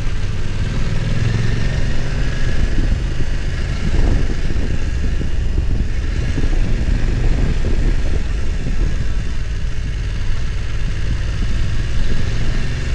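BMW F900 XR's parallel-twin engine running as the motorcycle is ridden, a steady low rumble at an even loudness.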